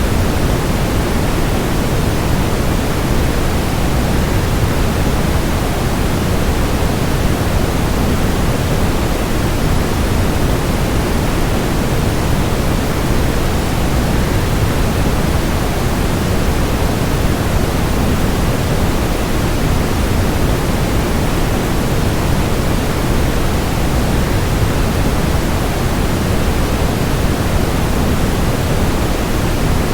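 Steady rushing of a waterfall blended with soft white noise, an even, unbroken hiss that is fullest in its deep part and never changes.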